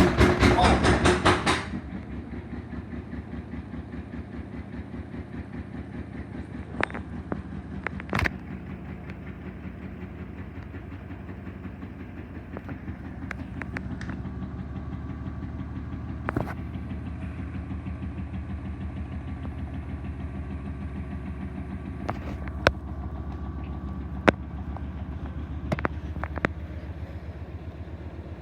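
Bosch WAW28790AU front-loading washing machine on a spin cycle with an unbalanced load: for the first second and a half the drum bangs loudly in a fast rhythm. It then settles into a steady pulsing spin hum, with a few sharp knocks now and then.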